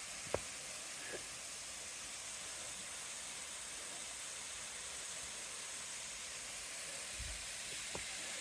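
Steady hiss of water rushing over a partly frozen, melting waterfall, with a sharp click just after the start and a soft low thump about seven seconds in.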